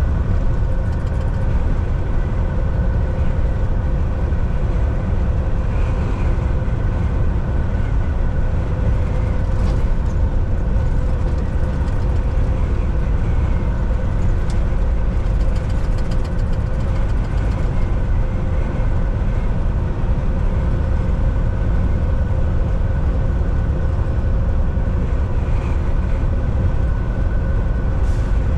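Volvo VNL 760 semi truck cruising on the highway, heard from inside the cab: a steady low engine drone with tyre and road rumble, and a faint steady whine above it.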